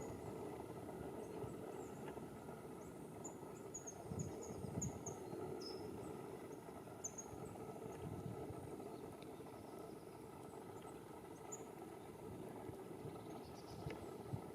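Bird giving short, high chirps, a quick run of them a few seconds in and a single one later, over a faint steady low background noise.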